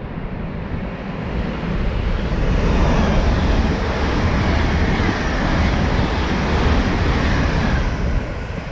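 LNER Azuma high-speed train passing through the station at speed: a heavy rumble of wheels and rushing air that builds over the first few seconds, with a faint falling whine, then drops away about eight seconds in as the train clears.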